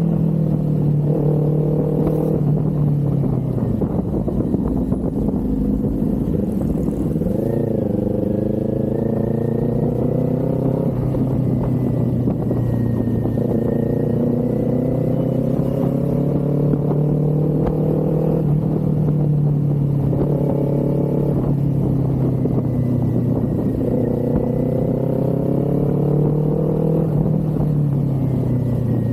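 Kawasaki Z400's parallel-twin engine running under throttle on the road, its pitch climbing steadily in each gear and dropping back at each upshift, several times over.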